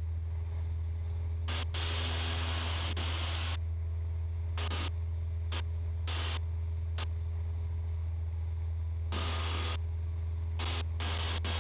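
Cessna 172's engine and propeller at takeoff power in the climb, a steady low drone heard through the intercom, broken by about ten irregular bursts of static hiss of varying length as the squelch opens and shuts.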